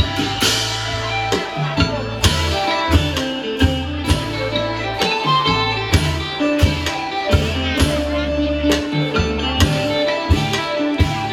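Pong lang ensemble playing Isan folk music: plucked-string and struck melody lines over sustained bass notes, with a steady drum beat.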